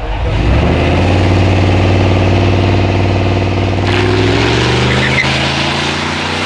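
Drag-racing car engine revving up sharply, then holding a steady high note under acceleration, with a shift in pitch about four seconds in.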